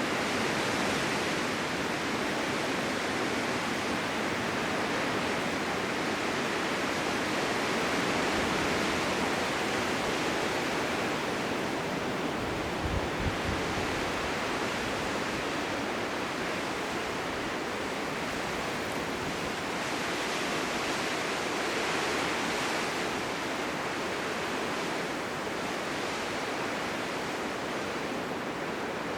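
Blizzard wind blowing steadily as a dense hiss, slowly swelling and easing, with a brief low thump about halfway through.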